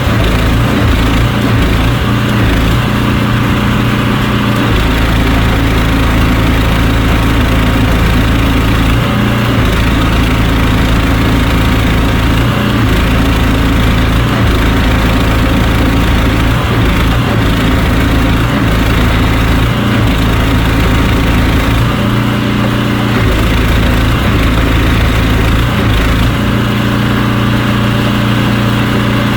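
Powered drain-clearing machine running steadily as it works through roots in a blocked sewer pipe, its low drone dropping out and coming back every few seconds.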